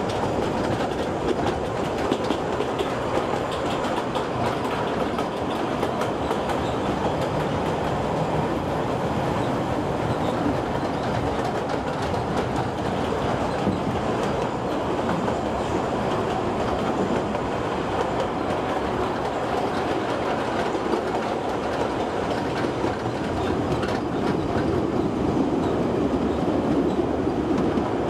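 Kurobe Gorge Railway narrow-gauge trolley train running steadily, its wheels clacking over the rail joints, heard from aboard the train. It grows a little louder near the end.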